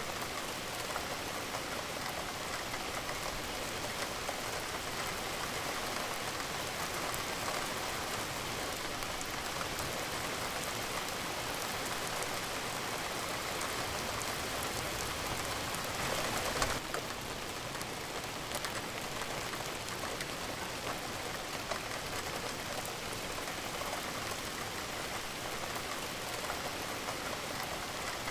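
Steady rain falling, an even hiss of drops, with a brief louder gush a little past halfway that cuts off suddenly.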